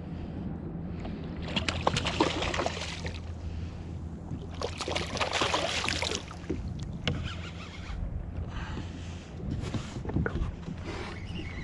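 Water rushing and splashing against a kayak in two long surges, with sharp knocks and smaller splashes later, over a steady low hum.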